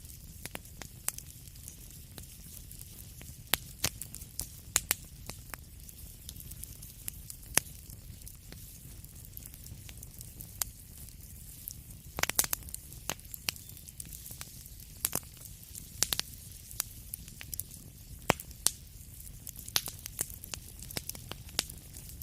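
Wood fire crackling in a fireplace: irregular sharp pops and snaps over a steady low rumble and soft hiss, with a quick cluster of pops about halfway through.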